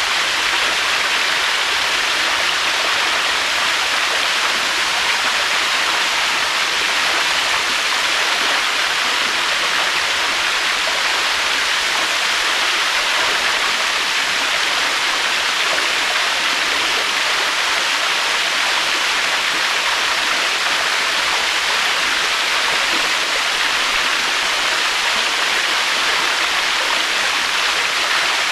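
Waterfall: falling water rushing with a steady, unbroken hiss that neither swells nor fades.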